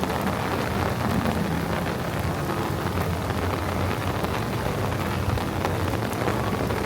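Steady rain falling during a thunderstorm, with fine drop ticks over a continuous low rumble underneath.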